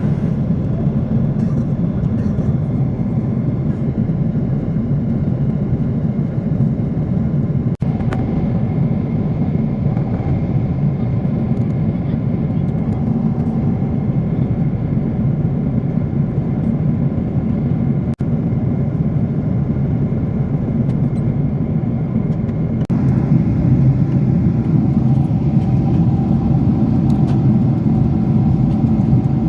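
Airliner cabin noise: the steady low drone of jet engines and airflow heard inside the cabin. It steps up a little in loudness about three quarters of the way through.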